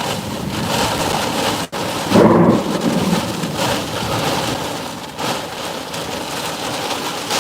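Heavy wind-driven rain from a severe thunderstorm lashing a truck, with storm winds gusting at an estimated 80-85 mph. About two seconds in, a brief louder gust with a pitched howl.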